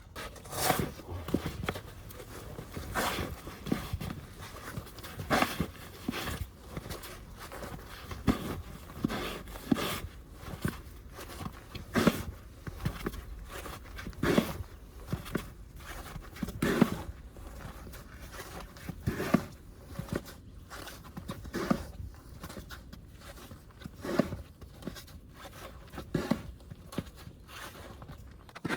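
Snow shovel working through about six inches of fresh snow, a scraping scoop-and-throw stroke about every two and a half seconds, with smaller scrapes and steps between.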